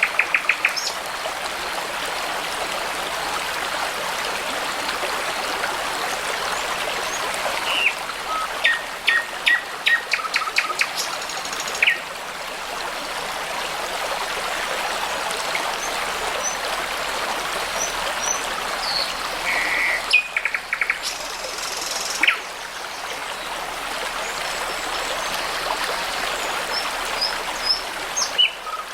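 Brook running steadily, with songbirds singing over it: quick runs of repeated notes about eight to eleven seconds in and again near twenty seconds, and scattered short high chirps.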